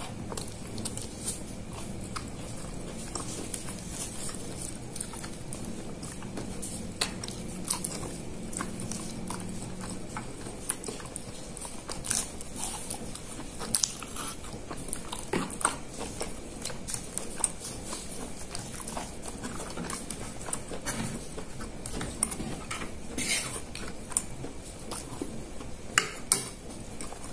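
Close-up eating sounds: chewing and biting chicken satay and rice cake, with wet mouth clicks and smacks. A few louder sharp clicks in the second half, with one near the end.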